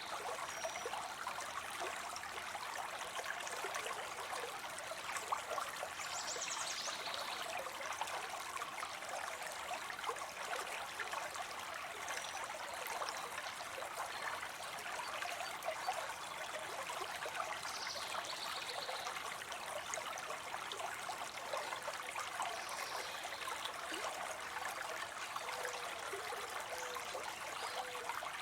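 Water spilling steadily into a pond: an even rush and trickle of small falling water, with a few faint, brief high chirps over it.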